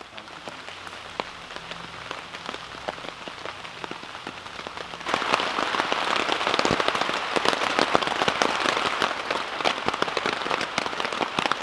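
Rain on a tent's fabric: a light patter at first, then abruptly much louder and denser about five seconds in.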